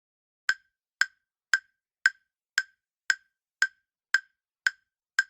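Countdown-timer tick sound effect: ten sharp, evenly spaced clock-like ticks, about two a second.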